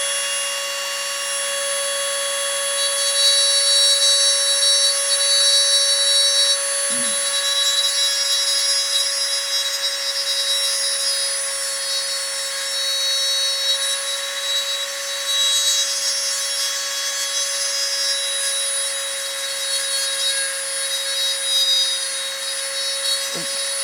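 Small power tool running at a steady high speed with a constant whine, grinding and shaping hardened JB steel putty in a slot car body's fender well.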